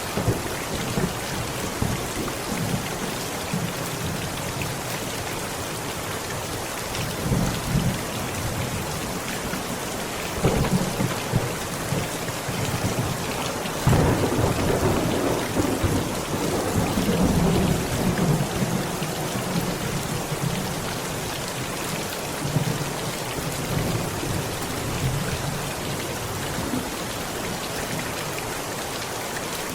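Heavy rain falling steadily on a tent, with several rolls of thunder rumbling under it; the longest starts about halfway through and lasts several seconds.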